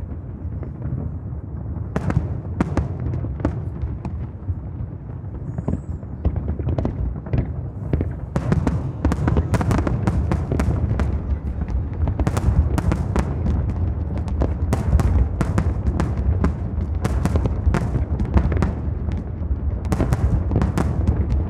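Aerial fireworks display: rapid, overlapping bangs of bursting shells over a constant low rumble. The bangs come thicker and faster from about eight seconds in.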